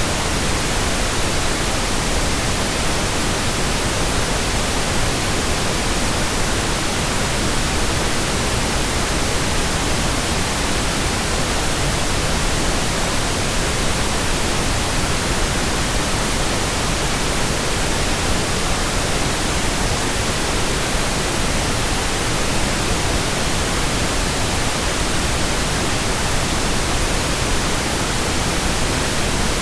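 Steady white noise: an even, unbroken hiss spread across all pitches, with no change in level.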